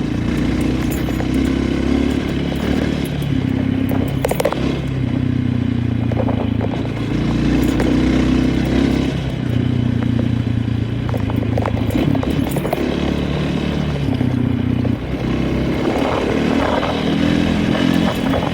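Motor vehicle engine running close by, its pitch stepping up and down every second or two as the throttle changes, with a few knocks and rattles.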